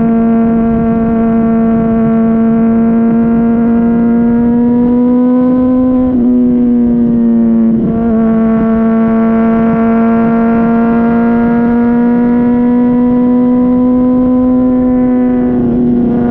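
Honda CBR600RR inline-four running through a Yoshimura RS-5 exhaust under way, a loud steady drone whose pitch climbs slowly, with brief dips about six and eight seconds in and again near the end.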